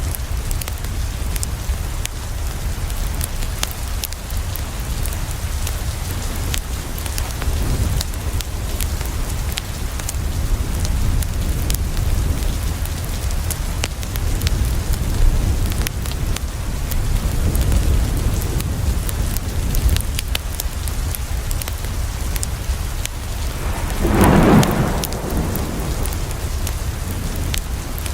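Steady rain falling on a window, with a continuous low rumble of thunder and many small sharp crackles. Near the end a louder rumble swells for about a second.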